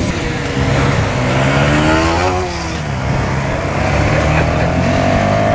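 Motorcycle engines accelerating on the move, the pitch climbing for about two seconds, dropping back, then climbing again near the end.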